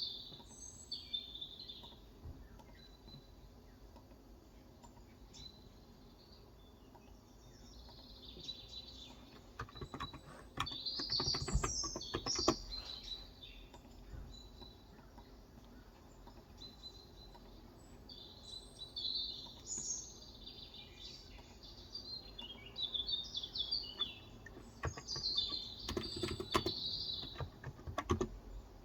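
Small birds chirping in repeated bursts, with two spells of quick keyboard typing on a Cox Endeavor capacitive (Topre-style) 35 g keyboard, one before the middle and one near the end.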